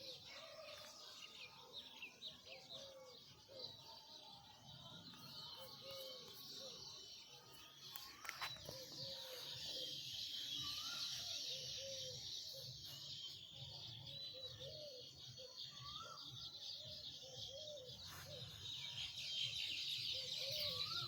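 Birds chirping and twittering in a dense chorus of quick high chirps, with lower short calls repeating about once a second throughout.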